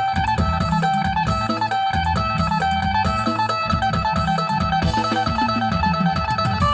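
Phin, the Thai Isan plucked lute, playing a melody of repeated plucked notes over a drone, with a steady pulsing bass line underneath.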